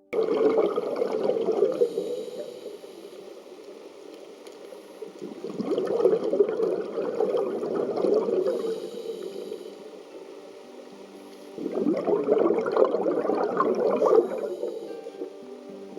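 Scuba diver's exhaled air bubbling out of a regulator, heard underwater: three bubbling bursts a few seconds apart, one for each breath out, with quieter stretches between them.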